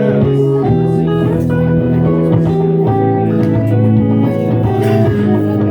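Live electric guitar music: an instrumental passage between sung lines, held notes layered over low bass notes, at a steady level.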